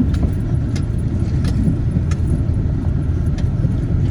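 Loaded vehicle creeping along at low speed, a steady low engine and road rumble with a few light rattling clicks.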